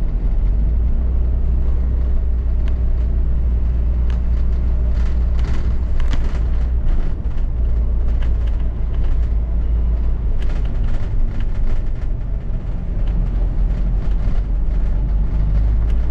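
London double-decker bus in motion, heard from inside: a steady low rumble of engine and road, with scattered rattles and clicks through the middle of the stretch.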